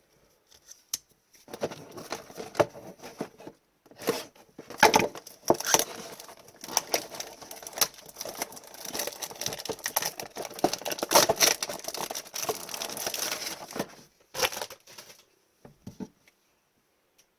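Packaging crinkling and tearing as a trading-card blaster box is unwrapped and opened. The crackling goes on for about twelve seconds, then tails off into a few short rustles.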